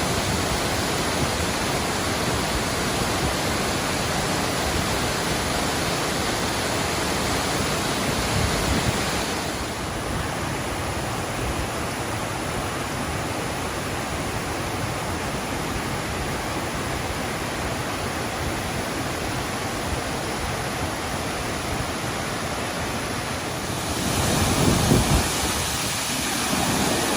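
Waterfall: falling water rushing as a steady, even wash of noise. It turns slightly duller about ten seconds in and brighter again near the end.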